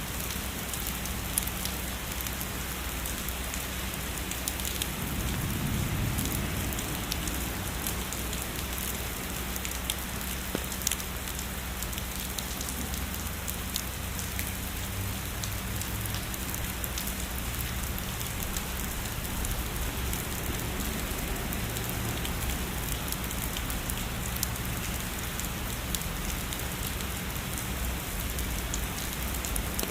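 Heavy rain falling steadily, a dense hiss with many sharp little drop ticks. A soft low rumble of distant thunder swells briefly about five seconds in.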